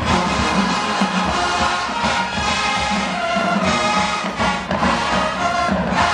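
Marching band brass playing a loud fanfare over a pulsing low beat.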